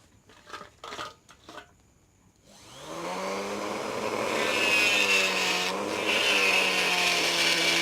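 A few light clicks of handling, then a homemade mini grinder driven by a sewing-machine motor spins up about two and a half seconds in and runs at speed with a steady whine. Its pitch sags briefly near the middle, as if it takes a load.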